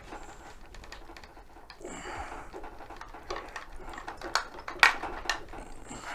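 Irregular small clicks and taps of metal hardware being handled: washers and a bolt being fitted onto a mobility-scooter tiller mount, with one sharper click a little before five seconds in.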